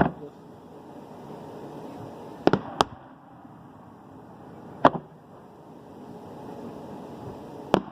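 Aerial fireworks shells bursting: sharp bangs, a close pair about two and a half seconds in, another near the middle and more near the end, over a steady background hiss.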